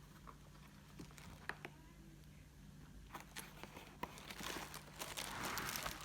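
Faint scattered clicks and light rustling of small plastic parts being handled while setting up a diamond painting kit. The rustle grows denser and more continuous near the end.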